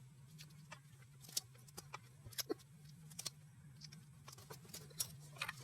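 Faint, irregular clicks and light metallic clinks of hand tools and engine parts being handled, over a steady low hum.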